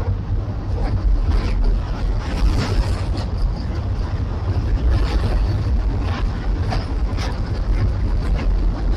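Freight train rolling past on an elevated railway viaduct: a steady deep rumble with scattered short metallic clanks from the wheels and cars.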